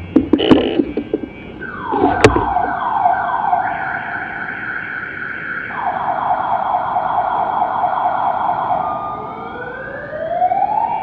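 A siren wailing, its pitch gliding down, holding for several seconds, then rising again near the end. In the first couple of seconds a motorcycle engine rumbles with a few sharp cracks.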